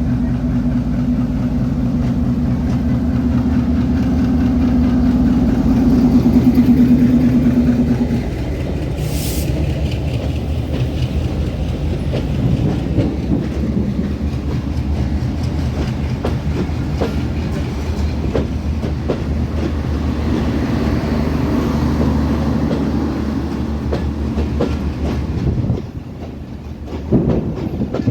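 Passenger train passing: a diesel locomotive's steady low engine hum, loudest for the first eight seconds. Then the carriages' wheels clatter rapidly over the rail joints until the level drops near the end.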